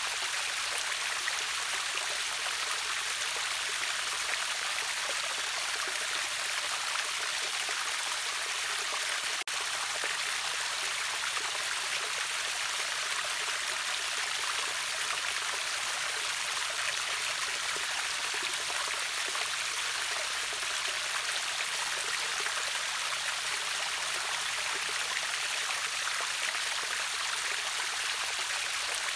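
River waterfall: a steady rush of splashing water, its sound sitting high with little deep rumble, unchanging throughout.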